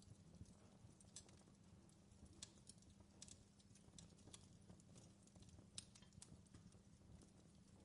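Fireplace wood fire crackling: faint, irregular sharp pops and snaps over a low steady rumble.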